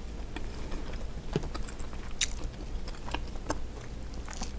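Quiet eating sounds: scattered small clicks and crunches as seafood is picked apart and chewed.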